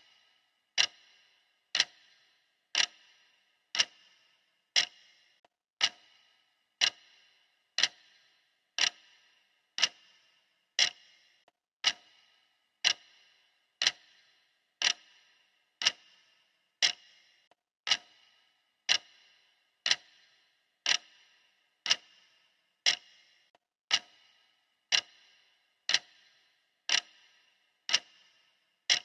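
Clock ticking steadily, one sharp tick a second, each with a brief ring after it.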